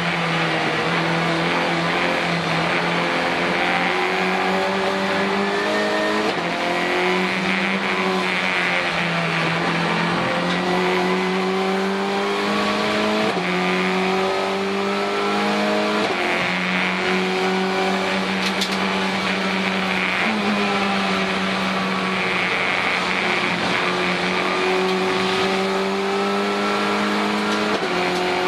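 Renault Clio Cup race car's turbocharged four-cylinder engine heard from inside the cockpit under hard driving. Its note climbs steadily, then jumps in pitch several times as gears are changed.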